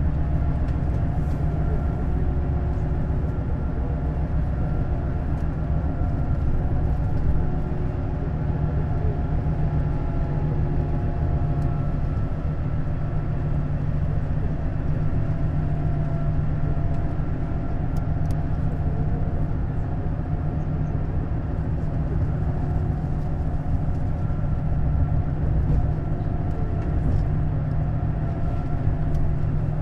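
Neoplan Skyliner N 1122/3C double-decker coach driving at a steady speed, its diesel engine running with an even hum over road noise.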